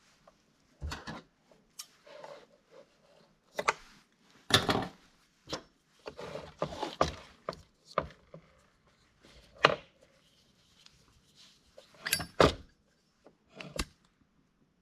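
Hands working the parts of a leaf blower's recoil starter: irregular sharp knocks and clicks of hard parts being set down and fitted, with rustling and scraping between them.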